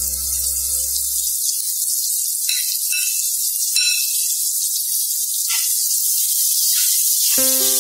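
Sliced onions sizzling in butter in a wok: a steady frying hiss with a few small pops. Background music fades out about a second in and comes back near the end.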